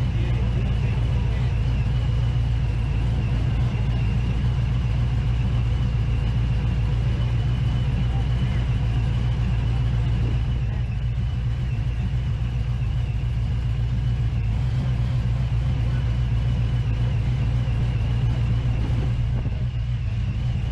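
Engines idling steadily: a constant low rumble with a thin, steady high whine above it.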